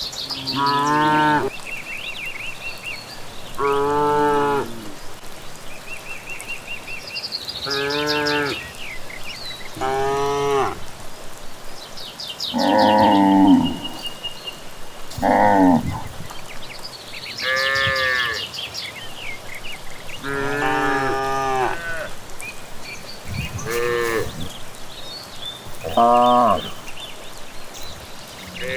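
Cattle mooing again and again, about ten long moos each lasting around a second, some lower and some higher in pitch. Birds chirp in short high calls between the moos.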